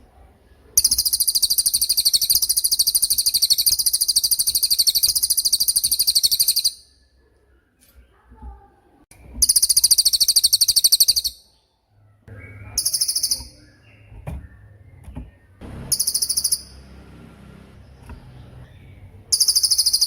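Cililin bird singing its 'tembakan' song: rapid trills of very high, sharp notes. A long trill of about six seconds comes first, then a shorter one, then three brief bursts near the end.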